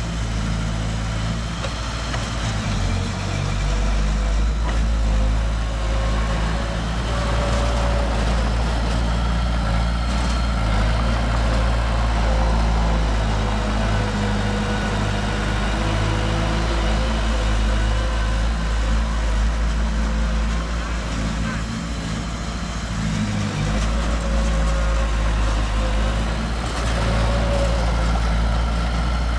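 Heavy diesel construction machinery running steadily at a low, even engine note, with small rises and falls in load.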